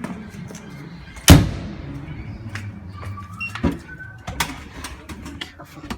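A door on a fire truck being handled: one loud slam with a ringing tail about a second in, then two smaller knocks and a scatter of clacks and clicks.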